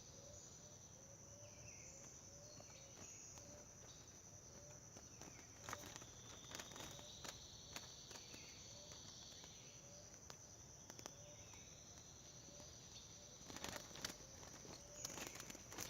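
Faint outdoor insect chorus: a steady high-pitched trilling and a soft low chirp repeating about twice a second. A few short crackles come near the end.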